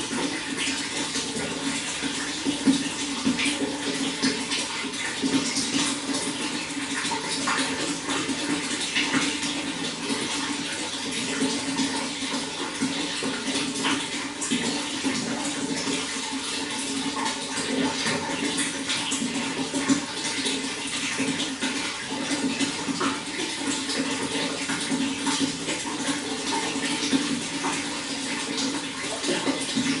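Running water flowing steadily, with constant small splashes and gurgles.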